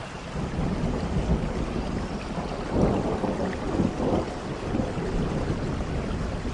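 Thunder rumbling over steady rain, building from the start and loudest about three seconds in.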